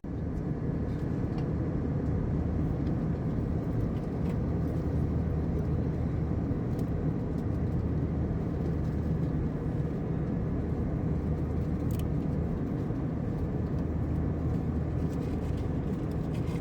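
Airliner cabin noise inside an Airbus A321: a steady, low rumble of engines and airflow.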